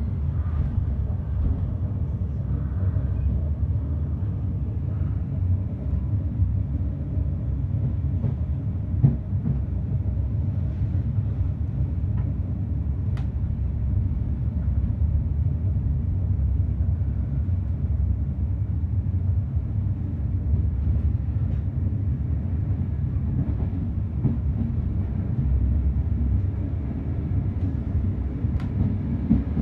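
Passenger train running along the line: a steady low rumble of wheels on rail, with a few sharp clicks.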